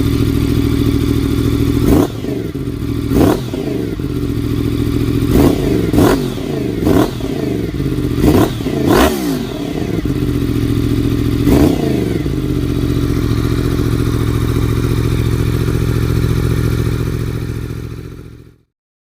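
A 1000 cc motorcycle engine idles through its exhaust and is blipped sharply about eight times between about two and twelve seconds in, each rev rising and falling quickly back to idle. It then idles steadily again until the sound cuts off abruptly near the end.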